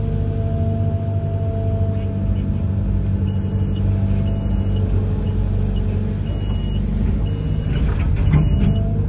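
Amphibious excavator's diesel engine running steadily. From about a third of the way in, a series of short high beeps sounds roughly once a second, and there is a brief louder surge near the end.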